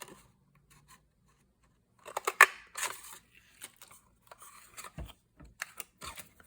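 Paper being handled as a small paper tab is taken out of a sheet: a burst of crisp rustling and clicking about two seconds in, then scattered small clicks and two soft thumps on the table.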